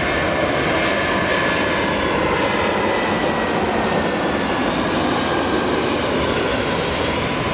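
Jet airliner's engines running loud and steady as it passes: a dense rush of noise with a faint whine that slowly falls in pitch.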